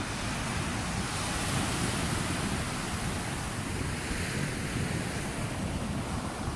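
Sea waves washing onto a shore, one wash swelling and fading over a few seconds, with wind rumbling on the microphone.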